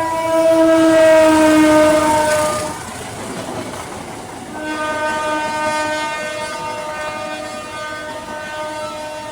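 Train horn sounding as the train passes, its pitch sliding down before it stops about two and a half seconds in. The rumble of the passing train follows, then a second long horn blast begins about four and a half seconds in and slowly fades.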